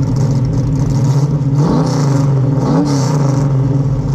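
Car engine idling and blipped three times, each rev rising briefly in pitch and dropping back to idle.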